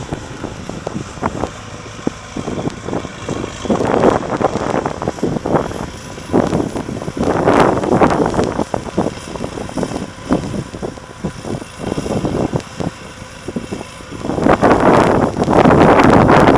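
Marshall 802 tractor's diesel engine running under load while ploughing, with wind buffeting the microphone in gusts, loudest near the end.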